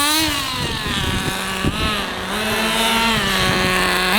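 Small nitro RC engine revving at high pitch, rising and falling as the throttle is worked, holding steadier for a stretch in the middle.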